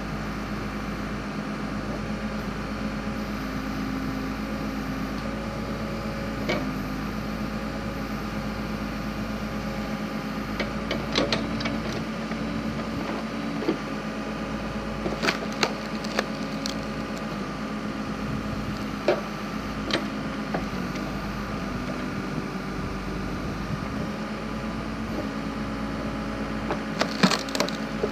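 Backhoe engine running steadily while its hydraulic log splitter works through firewood, with several sharp cracks and snaps of wood splitting, bunched in the middle and again near the end.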